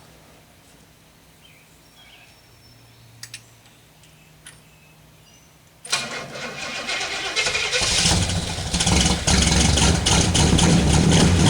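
A 1966 Pontiac Catalina's 389 V8 is cold-started after sitting for six years, with its carburetor primed. About halfway through the starter suddenly cranks it over; within a couple of seconds the engine catches and runs, growing louder.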